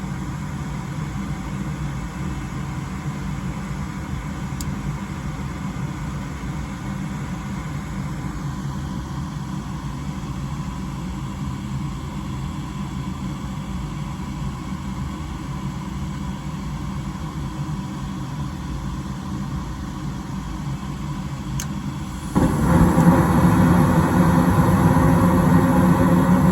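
Gas furnace starting a heating cycle: its motor runs with a steady hum, then about 22 seconds in a louder rumble sets in suddenly, typical of the burners lighting.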